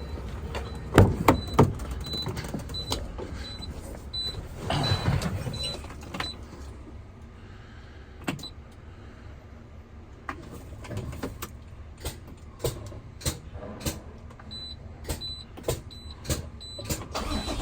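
Medium-duty truck, powered by a jump pack, sounding a high dashboard warning beep about twice a second, with sharp clicks from switches and the key and a short burst of noise about five seconds in.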